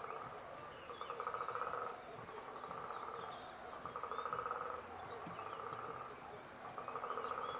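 A rasping animal call, each about a second long, repeated about every second and a half, with short high bird chirps in between.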